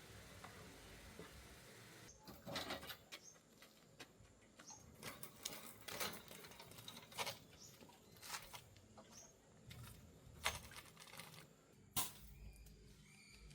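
A series of irregular light knocks and scrapes, about a dozen of them, starting about two seconds in.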